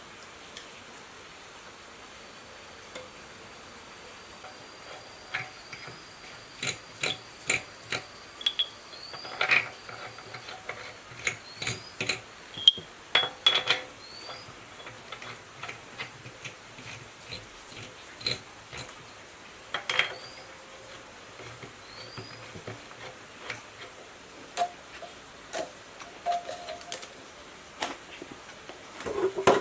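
Irregular clinks and knocks of metal tools and parts being handled, some ringing briefly, thickest in the middle stretch. A few faint short rising chirps sound in the background.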